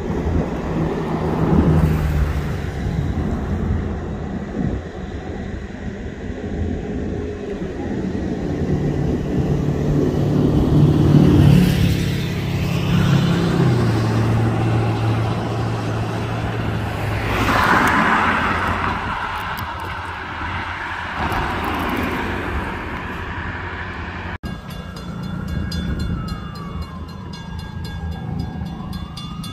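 Diesel freight locomotives running, their engine drone stepping down in pitch about halfway through, with stretches of louder rail and wheel noise. Near the end, after a sudden cut, a high tone glides down and back up over train noise.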